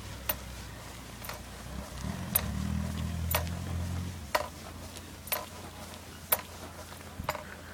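Mitsubishi Sigma engine idling with a low hum after diesel got into its petrol system, the hum rising briefly about two seconds in before settling. A light click sounds about once a second.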